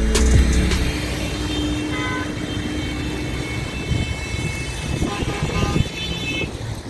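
Road traffic on a wet street: a steady rush of passing vehicles with a low rumble, and a short horn toot about two seconds in. Background music with a heavy bass fades out during the first second.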